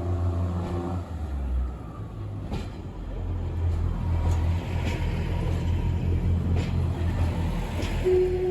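A train running on the line: a steady low rumble with a few short clicks spread through it, and a steady tone near the end.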